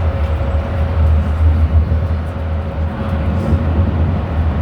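Interior sound of a Wrightbus GB Kite Electroliner electric bus: a strong low rumble with a steady hoover-like drone from its electric cooling fan.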